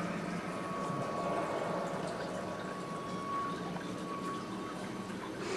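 Steady rushing, bubbling water sound from a television documentary's soundtrack, with a faint steady high tone running through it.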